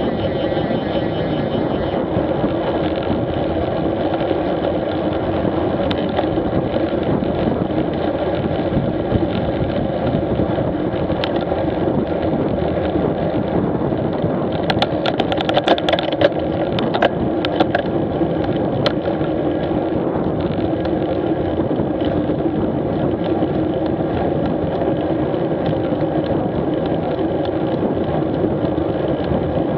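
Street motorcycle's engine running steadily under way, with a short cluster of sharp clicks about halfway through.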